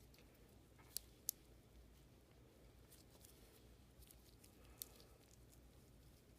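Quiet room hum with a few sharp clicks of small metal parts of a numbering machine being handled and fitted: two close together about a second in, one more later.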